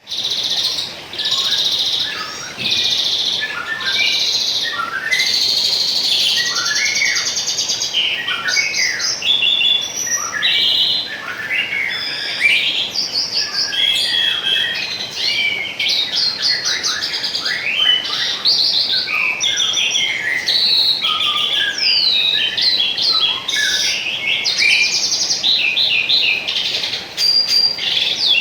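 Songbirds singing and chirping without pause: at first a run of evenly repeated buzzy phrases, then a busy mix of fast trills, chirps and whistled slides from more than one bird, over a faint steady rush of running water.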